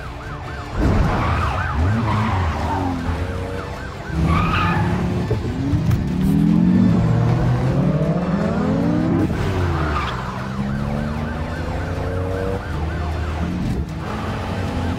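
Car engines revving hard, climbing and falling in pitch through the gears, under a police siren wailing in a quick up-and-down pattern that is strongest in the first few seconds and again toward the end.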